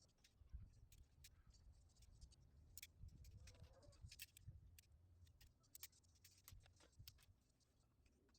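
Faint, scattered sharp clicks and ticks over a low rumble, from PVC pipe being cut and handled.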